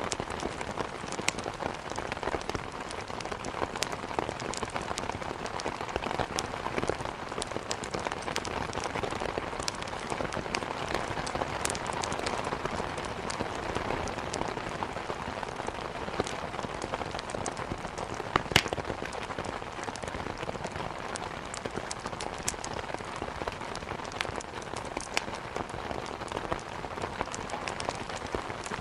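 Steady rain falling, with scattered sharp pops and crackles of wood burning in a fireplace over it; one louder pop about eighteen seconds in.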